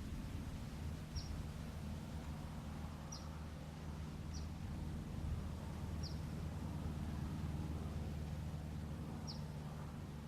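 A small bird chirping, five short high downward-sliding chirps spaced a second or more apart, over a steady low hum.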